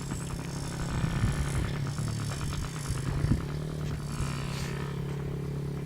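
Small dirtbike engine running at a fairly steady pitch, with a few short knocks or clatters.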